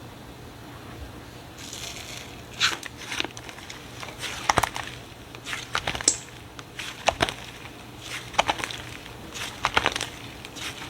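Slime being pressed and worked by hand, giving irregular clusters of sharp crackling pops and clicks, beginning after about a second and a half of quiet.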